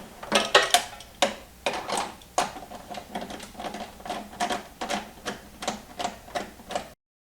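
Rapid run of sharp clicks from hand-tool work on the parts of a snowblower's starter motor, likely as its switch is refitted. The clicks are uneven at first and settle into about four a second, then cut off suddenly near the end.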